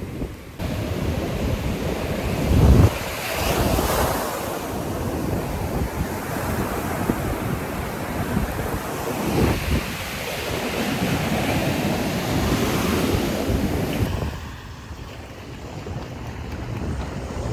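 Sea waves breaking and washing onto the beach, swelling several times, with wind rumbling on the microphone. It turns quieter and duller about three seconds before the end.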